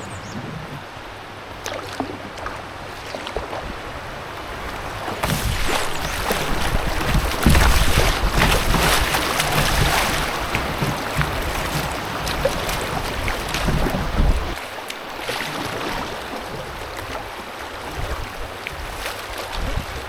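Canoe moving down a river, with water rushing and splashing around the hull and wind buffeting the microphone. The rushing grows louder about five seconds in and eases off again after about fourteen seconds.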